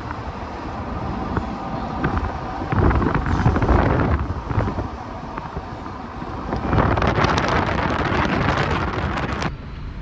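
Wind buffeting the microphone, a rough rumbling noise that swells in two stronger gusts, one about three seconds in and a longer one in the second half, then drops off suddenly near the end.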